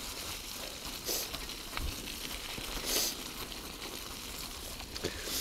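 Steady rushing hiss of wind and rolling noise on a moving bicycle, with two brief louder puffs of hiss about one and three seconds in.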